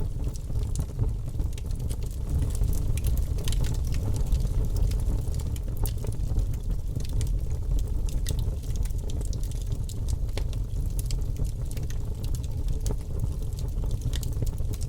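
Logs burning in a wood fireplace: a steady low rumble of the flames with many small sharp crackles and pops scattered throughout.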